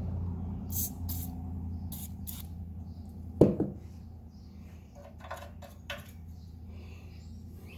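Scattered clicks and small rattles with one sharp knock and a short ring about three and a half seconds in, over a low hum that fades away.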